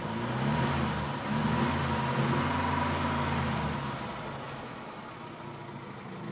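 1970 Volvo Amazon 121's four-cylinder engine revved from idle, heard from inside the car: a short rise in revs, then a longer rev held for about two and a half seconds before it drops back to idle.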